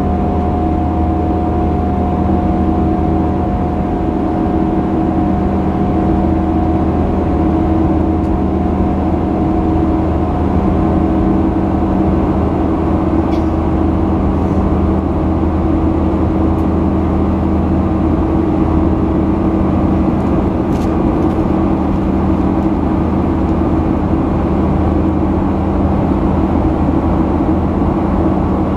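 A Boeing 737-800's CFM56-7B turbofan engines and rushing air, heard from inside the passenger cabin: a loud, steady noise with a low hum that stays even throughout.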